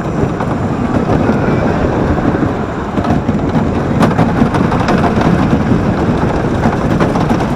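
Wooden roller coaster train rumbling and clattering along its track, heard from on board as a loud, dense, continuous noise.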